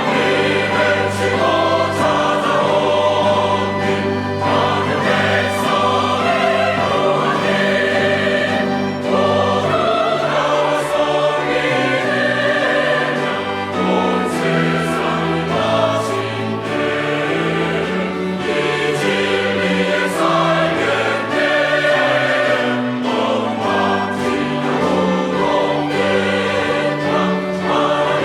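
Church choir singing a thanksgiving anthem with instrumental accompaniment.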